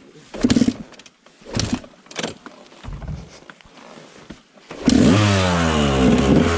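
A few short knocks, then a dirt bike engine catches about five seconds in on choke. Its revs fall away and it settles into a steady, loud cold idle.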